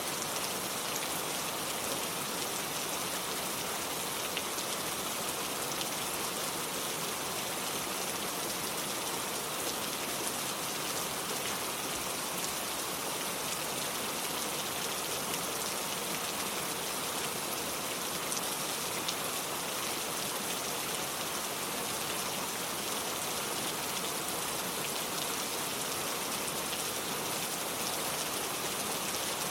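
Steady, gentle rain falling: an even, unbroken patter with no change in strength.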